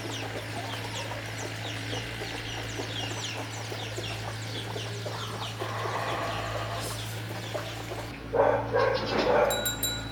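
Chickens clucking on a farm, with many short, high peeps repeating a few times a second. About eight seconds in, a louder call rises over them for a second or so.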